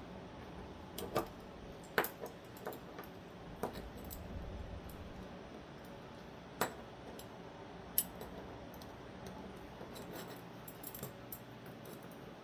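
Small metal parts of a crossbar-lock folding knife clicking and clinking as they are handled during disassembly. Scattered sharp clicks come a second or more apart, with a few closer together near the end.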